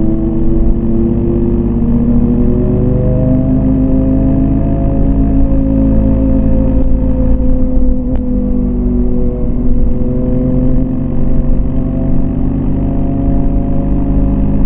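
Yamaha MT-25's parallel-twin engine running steadily under throttle, its pitch slowly rising and easing off as the revs change.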